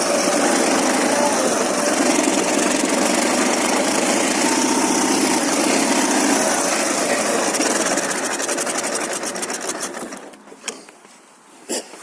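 Ural motorcycle's 750 cc flat-twin engine running steadily, then dying away over about two seconds near the end. Two short sharp clicks follow.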